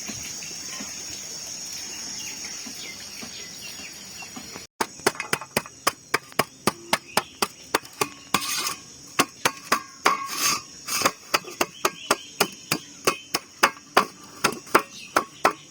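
A knife chopping greens on a hard surface, in quick regular strokes of about three a second, starting about five seconds in after a steady background hiss.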